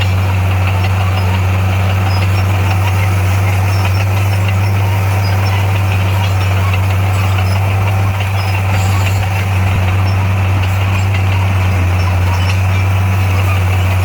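D58A bulldozer's diesel engine running steadily with a deep, even drone, dipping slightly about eight seconds in.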